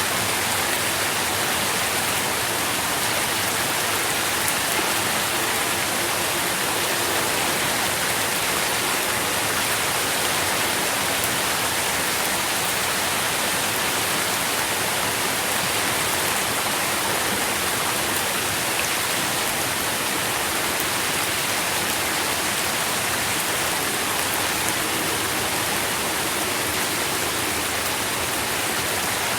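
Steady rain, an even hiss of falling drops with no pauses or changes in strength.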